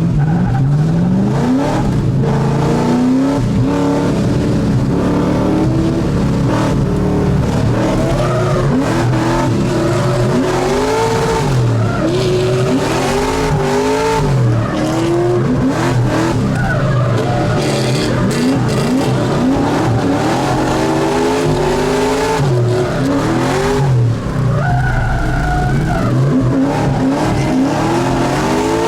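LS3 V8 in a swapped Mazda Miata revving hard through a drift run. The engine pitch climbs and drops back again and again as the car is driven, with tires skidding, and there is a longer tire squeal about four-fifths of the way through.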